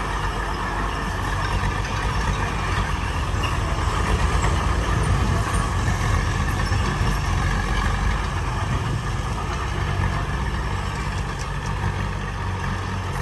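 Heavy diesel engine of construction machinery running steadily, growing a little louder about four seconds in and then easing back.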